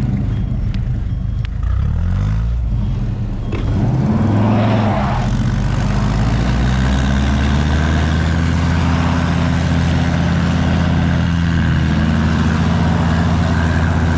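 A heavy machine's engine revs up twice in the first few seconds, then runs loud and steady under load while pulling on a tow chain to drag a forklift out of a snowy ditch.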